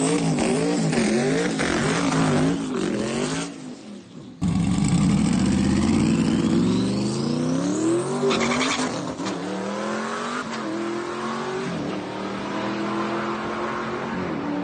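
Turbocharged Dodge V8 revving up and down repeatedly, dropping off sharply for a moment about four seconds in, then pulling hard with steadily rising pitch and a rising high whine before settling to a steadier run.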